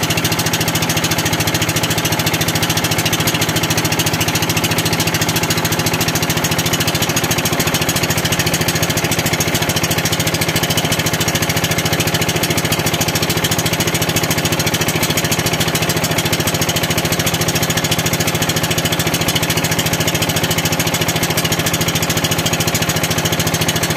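Small boat engine running steadily, with a fast, even pulse.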